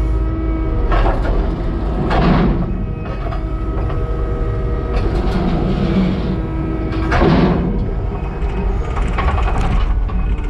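Skid steer's diesel engine running steadily under load, with several rough scraping bursts of concrete slab on concrete as pieces of the patio are pushed and lifted.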